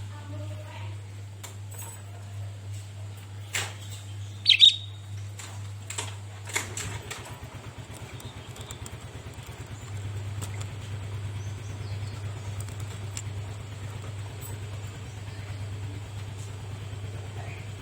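Sooty-headed bulbul (kutilang) giving a few short chirps, the loudest a quick falling pair about four and a half seconds in, over a steady low hum.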